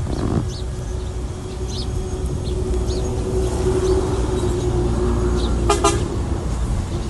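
Heavy earthmoving machine's diesel engine running steadily, with a steady drawn-out tone over the rumble and a short horn toot about six seconds in.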